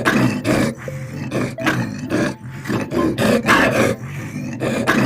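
A large wild animal giving a rapid series of rough, roaring calls, about two to three a second.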